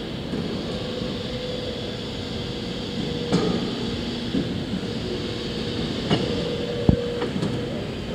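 CNC pipe bending machine running: a steady mechanical hum with a faint held whine, and a few sharp clunks about three, six and seven seconds in.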